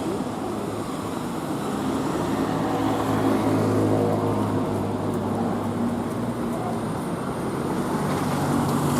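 Street traffic, with a vehicle engine running close by: a steady low hum that grows louder towards the middle and then eases.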